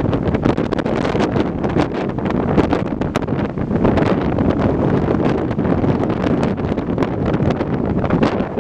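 Strong wind buffeting the microphone in gusts, a loud rushing roar with a continual crackle.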